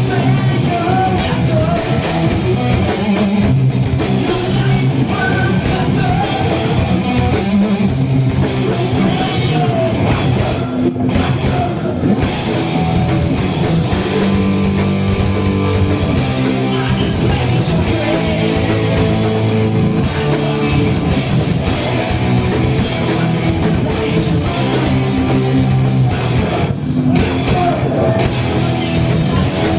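Live heavy metal band playing loudly, with distorted electric guitars, bass and a drum kit driving a fast, steady rhythm.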